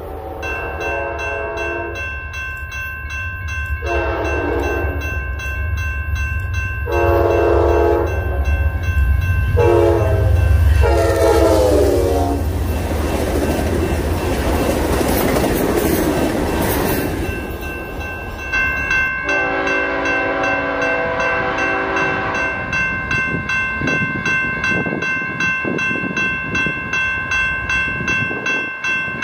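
Trains on a main line: a train horn sounds a series of separate blasts, then a passenger train rushes past close by with loud wheel and rail noise, then a horn sounds one long blast.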